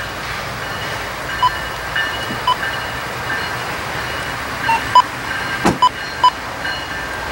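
An approaching train: a steady rumble over the rails, with a string of short, sharp metallic pings and clicks, the loudest about five to six seconds in.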